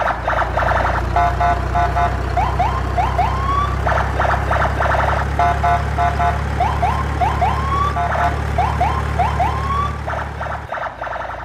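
Electronic siren sound effect cycling through rising whoops and rapid beeping pulses, repeating about every four seconds like a car alarm, over a steady low hum that cuts off near the end.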